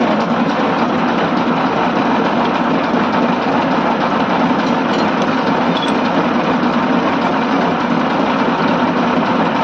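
HMT tractor's diesel engine running steadily at idle, with no change in speed.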